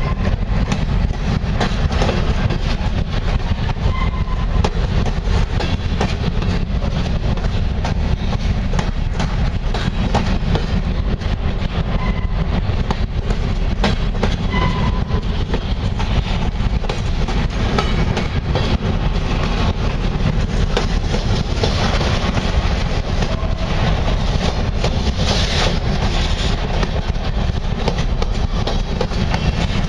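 Empty covered hopper cars of a grain train rolling past close by on a curve: a steady rumble and clatter of steel wheels on the rails, with a few short squeals.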